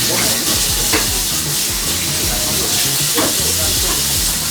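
Food frying in a pan: a steady sizzle.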